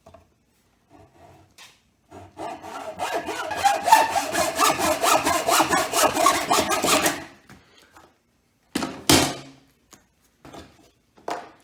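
Handsaw cutting through a hard wooden stake in quick back-and-forth strokes for about five seconds, then stopping. A couple of sharp knocks follow a little later.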